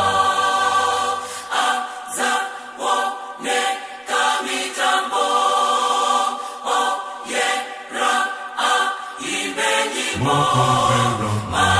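Background music of a choir singing, with the deep bass dropping out for most of the stretch and coming back near the end.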